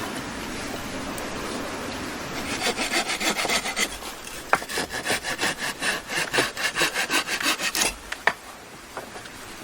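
A hand saw cutting through wood in quick, even back-and-forth strokes, about five a second, with a brief pause partway, ending in a couple of sharp knocks.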